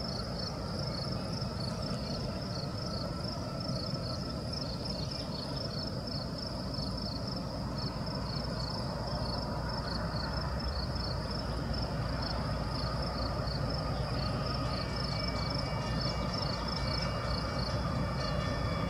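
A CSX diesel freight locomotive approaches at the head of an intermodal train, its low engine rumble building slowly. A high-pitched chirp repeats steadily throughout, and in the last few seconds a faint steady whine joins in.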